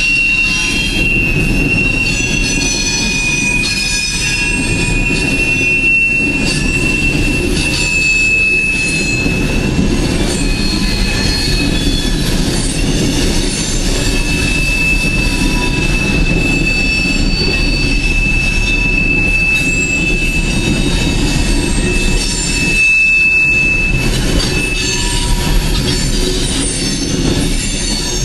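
Coal train's freight cars rolling past on steel rails: a steady low rumble of wheels with a thin, high-pitched wheel squeal that wavers slightly in pitch.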